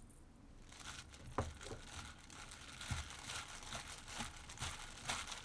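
Crinkling and rustling, as of packaging being handled, with several sharp clicks. It starts about a second in and stops just before the end.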